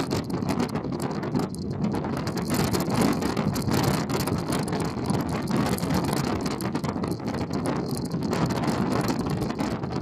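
Wind buffeting the microphone aboard the Ise Bay car ferry Ise Maru under way, over a steady low rumble, with crackling gusts throughout.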